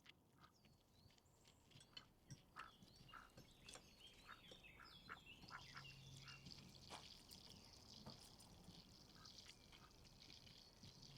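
Faint bird chirps and short calls, scattered irregularly throughout.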